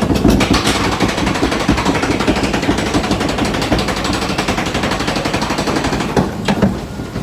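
Fast, loud mechanical clatter of a log flume ride's lift hill carrying the boat, many strikes a second, easing off near the end.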